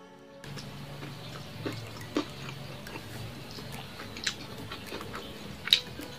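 Close-miked eating sounds: chewing with a handful of sharp wet mouth clicks and smacks, the loudest near the end.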